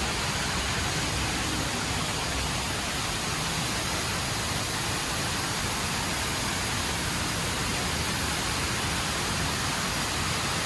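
HSBC Rain Vortex, a very tall indoor waterfall, pouring down steadily, heard as a constant rush of falling water.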